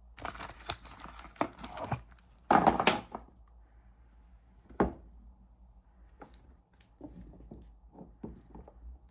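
Soap packaging being torn open and crinkled, loudest about two and a half seconds in. Then a single sharp knock near the middle and a few light taps and handling sounds near the end.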